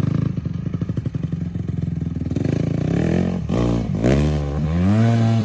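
Honda CRF450R dirt bike's single-cylinder four-stroke engine chugging at low revs, then revving up, dropping back and rising again over the last three seconds, as a beginner rider works the throttle and clutch to pull away.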